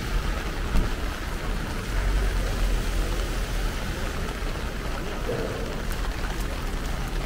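Heavy rain pouring steadily, an even hiss over a low rumble.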